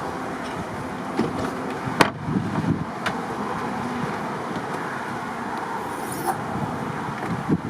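Steady outdoor background noise like passing road traffic, with a few sharp knocks and clicks: a loud one about two seconds in, another about a second later, and several near the end.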